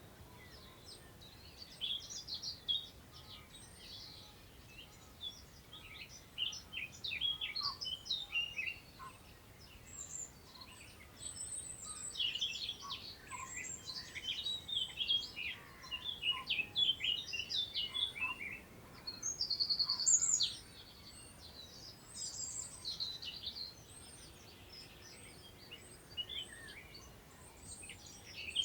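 Several wild songbirds singing at once: bursts of overlapping chirps and trills that come and go, loudest about two-thirds of the way through, with a thin high note repeating about once a second behind them.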